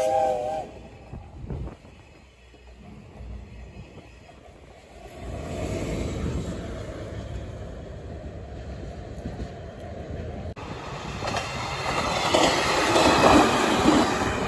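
A steam locomotive's whistle stops within the first second. A DE10 diesel locomotive's engine then rises in level as it approaches from about five seconds in. After an abrupt cut, an electric train passes close by with its wheels running on the rails, and this is the loudest sound, near the end.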